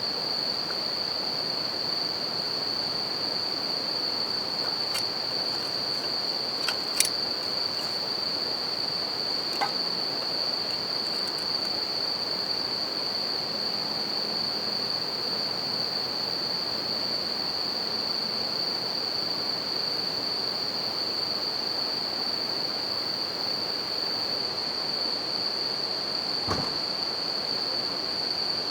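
Campfire crackling with a few sharp pops, the loudest about seven seconds in and another near the end. Behind it a river rushes steadily, and bell crickets (suzumushi) keep up a continuous high ringing chorus.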